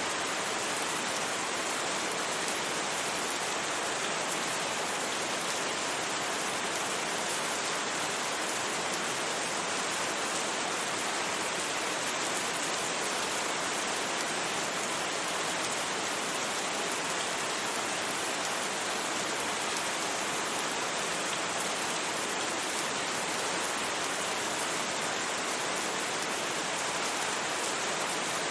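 Steady rain, an even unbroken hiss with no thunder and no separate drops standing out.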